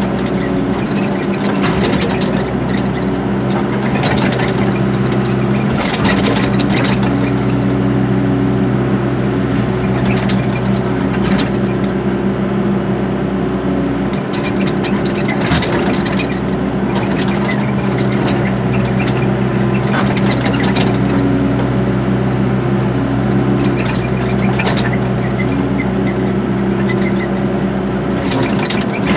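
Excavator diesel engine running at a steady pitch, with sharp clanks or knocks every few seconds.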